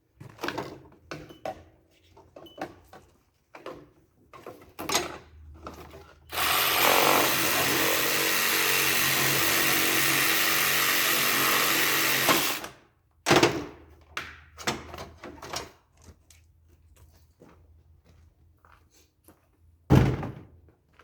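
A power tool runs steadily for about six seconds in the middle. Before and after it come sharp knocks and clatter of metal and plastic parts being handled, with one loud thump near the end.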